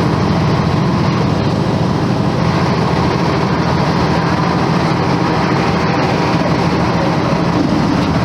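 Volvo B10M bus's horizontal six-cylinder diesel engine running steadily, a loud, even drone with no change in pitch.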